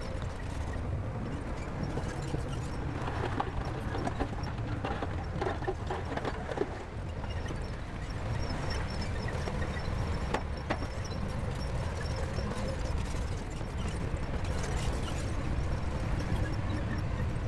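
SHANTUI bulldozer's diesel engine running steadily with a low rumble, with scattered clanks and knocks, most of them in the first seven seconds and one sharp knock about ten seconds in.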